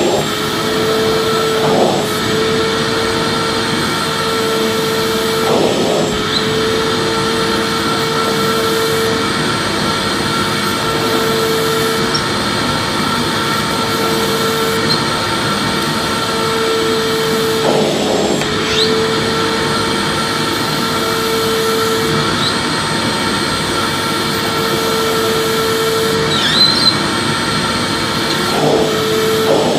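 Vacuum cleaner running steadily: a rushing airflow with a constant motor whine, the whine briefly breaking off or wavering every few seconds.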